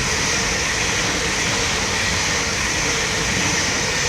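A train passing at speed, a steady rush of wheel and rail noise that swells in and dies away just after the end.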